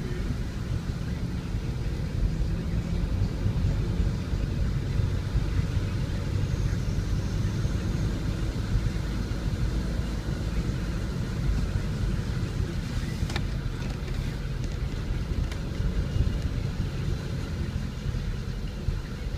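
Steady low rumble of motor vehicle traffic, with one faint click about two-thirds of the way through.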